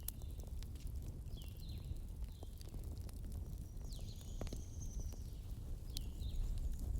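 Wood fire in a fireplace crackling: irregular sharp pops and snaps over a steady low rumble. A few short, high chirps that fall in pitch come through now and then.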